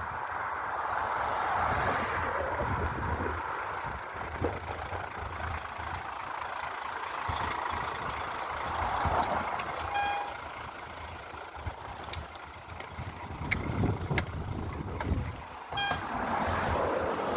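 Wind rushing over the microphone while riding along a road, with passing road traffic. Short electronic beeps sound about ten seconds in and again near the end.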